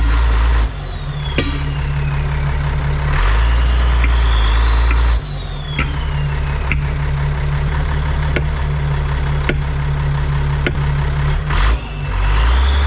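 1987 Ford L8000 turbo diesel engine running, revved up and let back down about three times, with a whine that rises and falls with each rev. A few sharp knocks come in between the revs.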